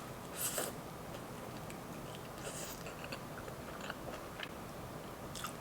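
Close-miked chewing and biting of a garlic Parmesan chicken wing: small wet mouth clicks, with two brief louder bites about half a second and two and a half seconds in.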